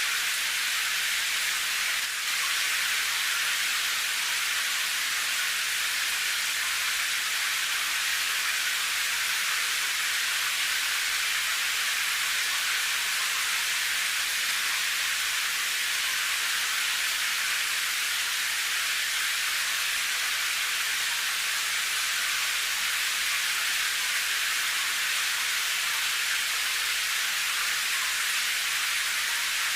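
Steady hiss of heavy rain from an added rain sound track, even and unbroken, sitting high with almost no low rumble.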